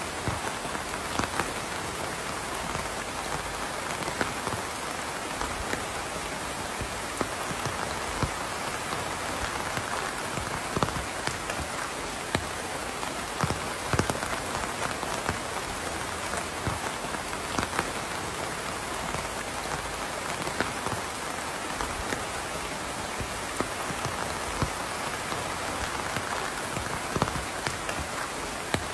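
Steady rain falling, with many distinct drops ticking sharply against a surface scattered through it.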